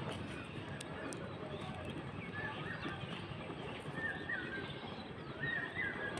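A bird giving short chirping calls, once a little over two seconds in, again about four seconds in and twice near the end, over a steady crackling rustle.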